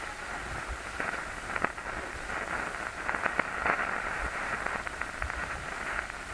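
TV static: a steady hiss, strongest in the middle range, with scattered sharp crackles and clicks, thickest from about one to four seconds in.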